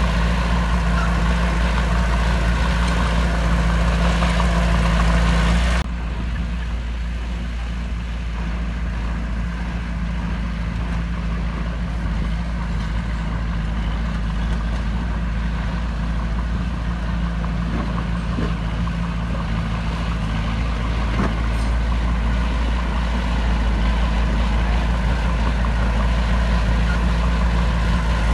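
Heavy diesel engine of earthmoving machinery running steadily. About six seconds in the sound cuts abruptly to a slightly quieter engine sound, which continues.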